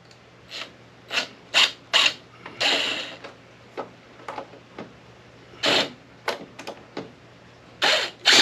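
A Craftsman screwdriver working the screws and plastic casing of an APC battery backup unit, making irregular clicks and short scraping, ratchet-like strokes.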